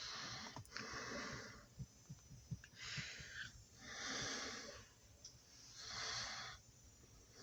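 A person breathing close to the microphone: four slow, noisy breaths about a second or two apart.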